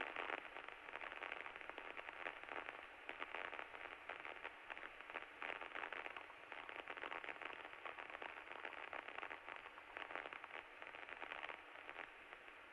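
Crackling static hiss over the Cessna 152's cockpit intercom, thin and radio-like, with a faint steady whine running under it.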